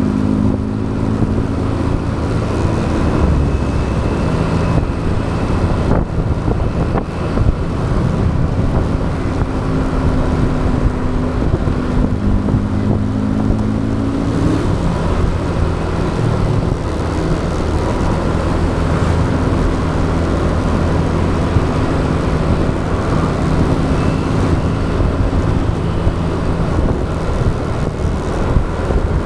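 Motorbike engine running as it is ridden, its pitch stepping up and down with speed, under steady wind noise on the action camera's microphone.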